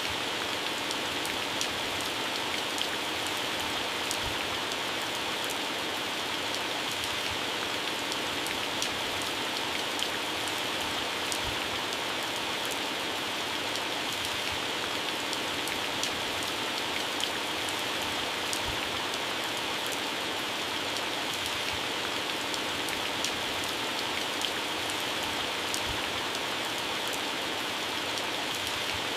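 Heavy rain falling steadily on garden plants and grass: an even hiss with many scattered sharp drop impacts on the leaves.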